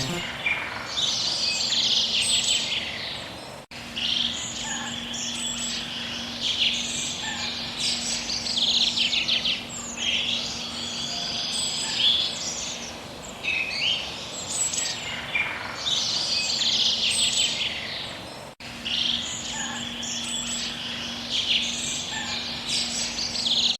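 Birds singing: repeated bursts of quick chirps and trills over a faint steady hum, broken by two brief dropouts about four and nineteen seconds in.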